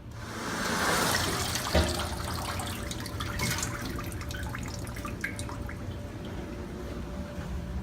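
Running water splashing, with many small drips and spatters.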